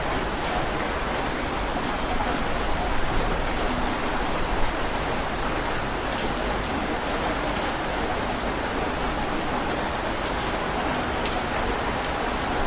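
Steady heavy rain, with scattered sharp drop ticks over an even hiss.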